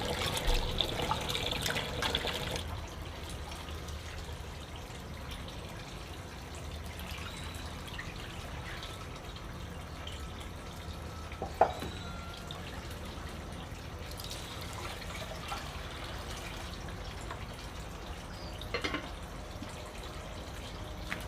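Water running, then cutting off about two and a half seconds in. Occasional drips and small clicks follow, with one sharper knock about halfway through.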